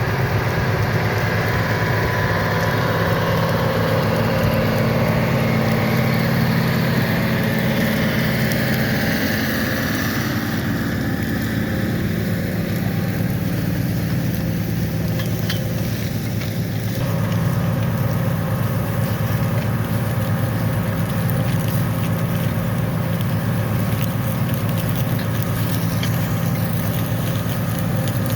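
Large diesel farm tractor engine running steadily, pulling a plow. The character of the sound changes twice, about a third of the way through and again past halfway.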